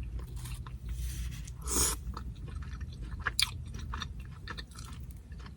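Close-up chewing of carne asada nachos: tortilla chips crunching and crackling between the teeth, with a louder crunch about three and a half seconds in.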